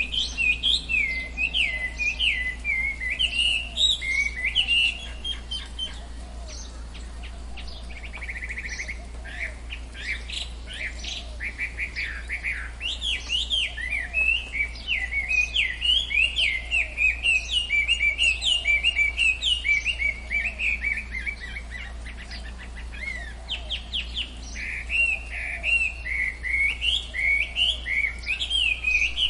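Tropical forest birds chirping in a fast, busy chatter of short, sweeping notes. The chatter thins out twice, about a quarter of the way in and again about two-thirds through. A steady low hum runs underneath.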